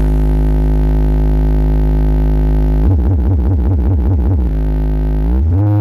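Large carnival sound system played loud during a sound check, pushing deep electronic bass: a held low bass note, then a wobbling bass pulsing about four times a second, then a rising sweep in pitch near the end.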